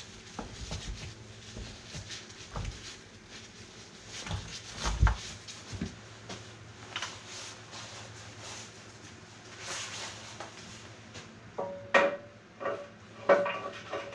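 Steel parts and tools clinking and knocking while a mini excavator's hydraulic ram pin is taken apart. There is a dull thud about five seconds in, and two sharp metal clanks that ring briefly near the end.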